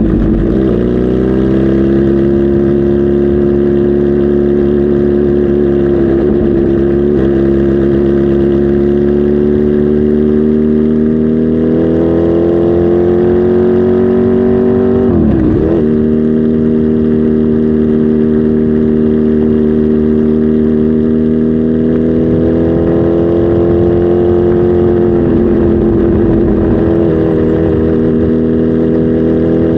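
Kawasaki Z H2 SE's supercharged inline-four engine running steadily, its pitch slowly climbing. Twice, near the start and about halfway through, the pitch drops sharply and recovers.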